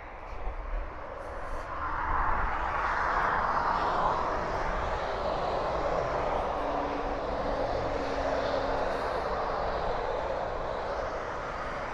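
Motorway traffic rushing past, a steady roar of tyres and engines that swells about two seconds in as a vehicle passes close, then holds.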